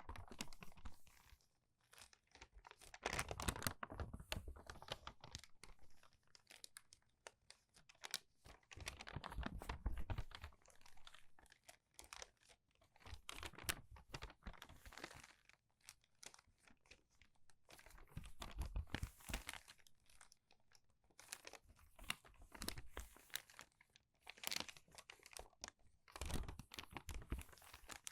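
Crumpled paper pages being turned at a quick pace: a series of crinkly, crackling rustles, one every few seconds.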